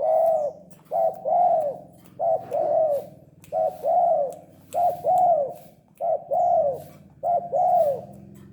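Spotted dove cooing repeatedly: seven two-part coos, a short note then a longer arching one, about one every second and a bit.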